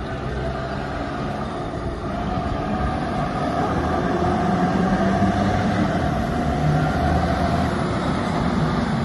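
JCB 722 dump truck's diesel engine running steadily. It grows louder a few seconds in, with a whine above the engine note.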